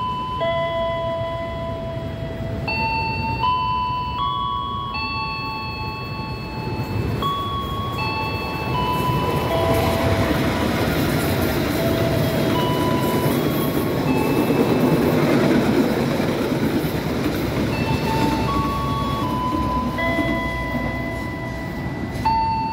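A long-distance passenger train passing through a station without stopping: the noise of wheels on rails swells from about a third of the way in, is loudest around two-thirds through, then fades. A chiming melody of glockenspiel-like notes plays throughout.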